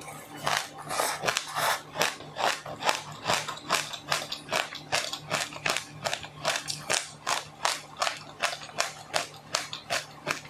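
A person chewing crunchy food close to the microphone, a steady rhythm of crisp crunches about three a second.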